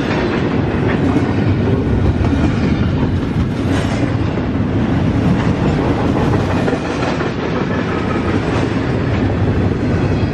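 Norfolk Southern freight train cars rolling past in a steady, loud rumble, with the wheels clicking over rail joints.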